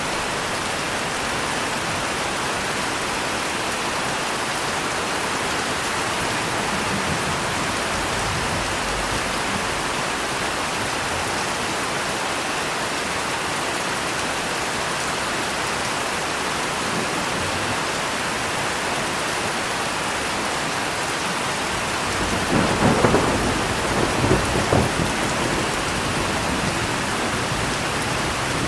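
Steady heavy rain falling, with a roll of thunder rumbling in about three quarters of the way through.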